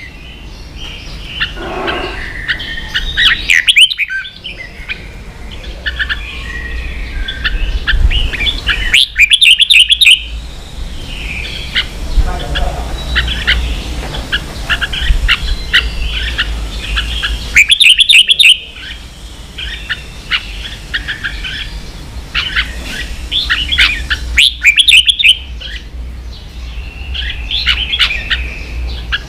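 Red-whiskered bulbul singing continuously, with loud bursts of rapid chattering notes every several seconds: the 'ché' song style used to train caged bulbuls.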